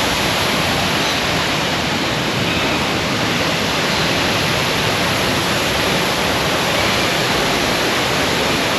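Big waterfall: a steady, even rush of falling water.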